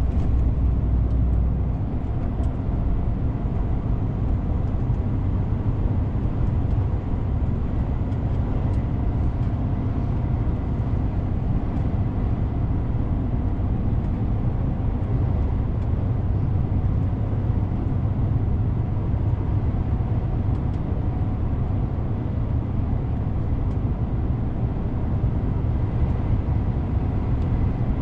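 DAF CF 450 truck running on the road: a steady low drone of diesel engine and road noise.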